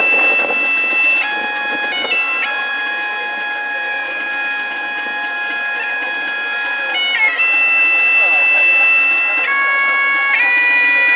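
Music of long held notes on a reed wind instrument, reedy and full of overtones, moving to a new pitch every one to three seconds.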